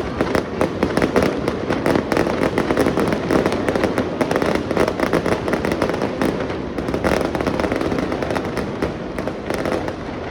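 Fireworks going off in a dense, continuous barrage of rapid crackling bangs, thinning a little near the end.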